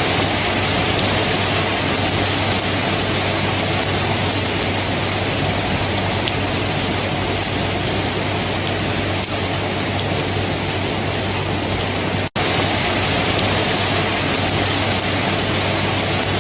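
Steady, dense rainfall with a constant low hum underneath. About three quarters of the way through, the sound cuts out for a split second and comes straight back, like a splice in a looped recording.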